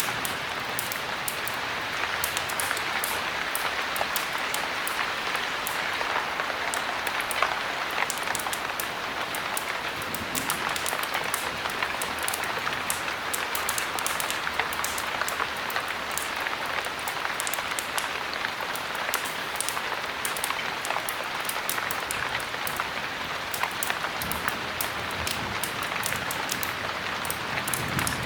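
Heavy rain falling steadily, with many small sharp ticks scattered throughout.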